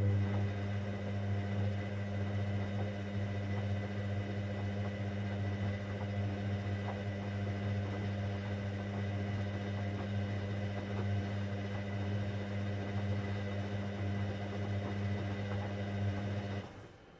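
Hoover Dynamic Next washing machine giving off a steady electric hum during its cotton 60 programme, cutting off suddenly near the end.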